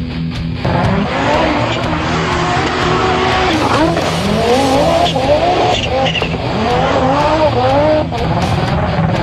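Turbocharged Mahindra Xylo rally car's engine revving hard, its pitch climbing and dropping again and again as it is driven.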